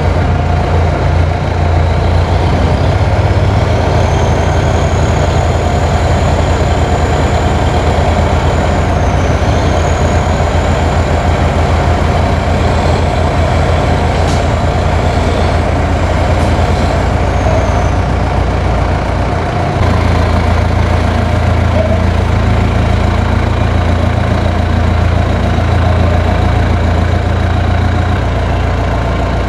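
Heavy truck's diesel engine running steadily, its low note shifting slightly about twenty seconds in, with a faint high whistle above it through much of the first half.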